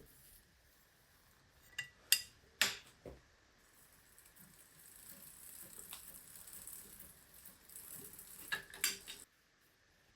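Workshop handling noises: a few sharp clicks and knocks, then a steady hiss for several seconds, more clicks near the end, and the sound cuts off suddenly.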